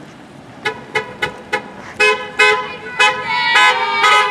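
Car horns honking in greeting as vehicles pass. First come four quick short toots, then a string of longer, overlapping honks at two or more different pitches.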